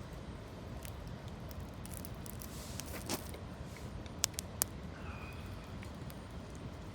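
Wood campfire burning, with a few sharp pops and crackles, clustered about three to four and a half seconds in, over a steady low rush.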